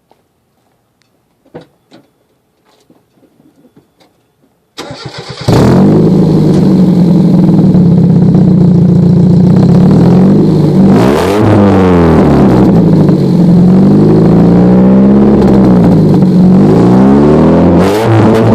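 1994 Mazda Miata's 1.8-litre four-cylinder is cranked and starts about five seconds in, after a few faint clicks, then runs loud through a Megan Racing cat-back exhaust. The engine speed rises and falls twice in brief revs.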